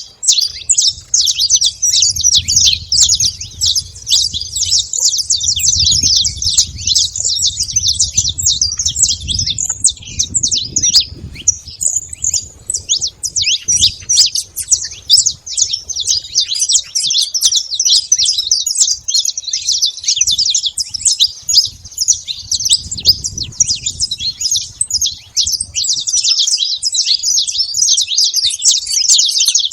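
Saffron finch singing: a long, unbroken run of quick, high chirping notes that never pauses.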